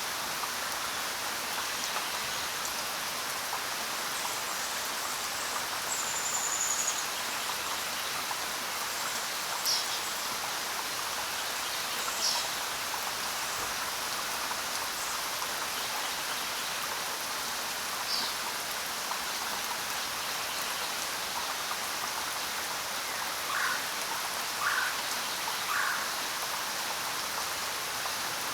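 Steady rain falling on the ground, an even patter of drops. A few brief higher-pitched sounds stand out over it, three of them close together near the end.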